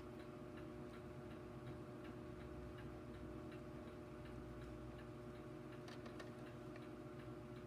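Faint, regular ticking over a low, steady hum.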